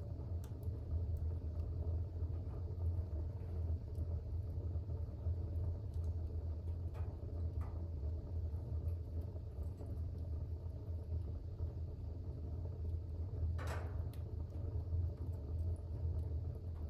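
Fire burning in a fireplace: a steady low rumble of the flames with a few faint crackles and one sharper pop near the end.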